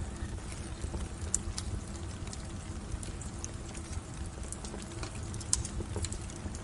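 Wood fire in a fireplace crackling, with irregular sharp pops and snaps over a steady low rumble; one louder pop comes about five and a half seconds in.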